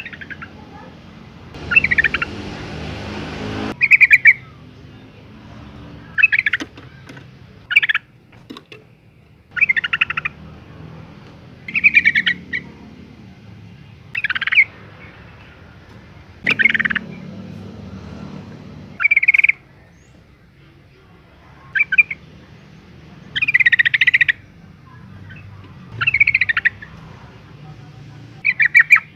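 Female yellow-vented bulbul calling: short, bright chattering phrases repeated about every two seconds. This is the call a female makes to draw a male into answering.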